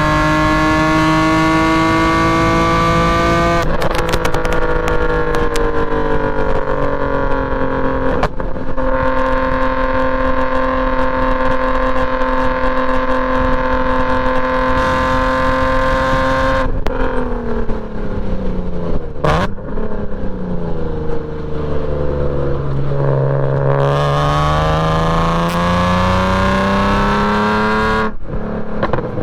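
BMW E46 M3's straight-piped 3.2-litre S54 inline-six being driven hard on track. Its pitch climbs and drops sharply at upshifts about 4 and 8 seconds in, then holds steady for several seconds. It falls as the car slows, with a sharp click partway down, then climbs again to one more upshift near the end.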